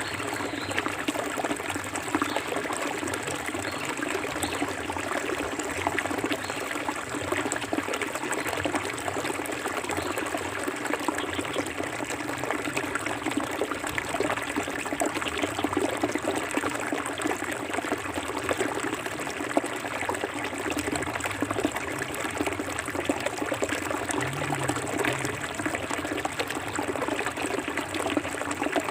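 Clear forest river flowing: a steady rush of water with many small splashes and drips.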